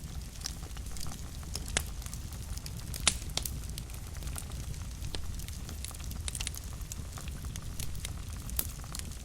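Fire crackling in a fireplace: irregular sharp pops and snaps over a low steady rumble, the loudest pop about three seconds in.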